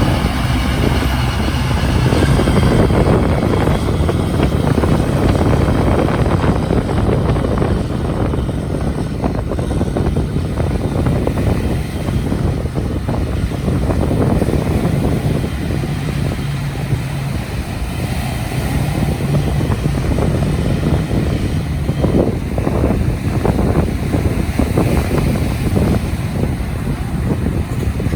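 An engine running steadily under load, with wind buffeting the microphone.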